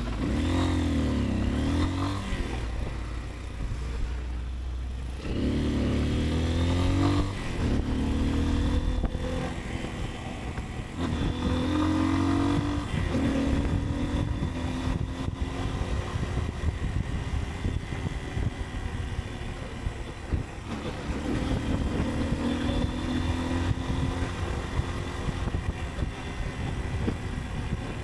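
Motorcycle engine pulling away and accelerating, its pitch climbing several times with drops between gear changes, over steady wind and road rumble.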